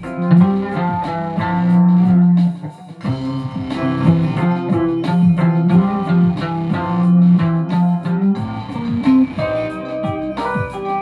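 Guitar music: plucked guitar notes over a held low bass line, with frequent note changes.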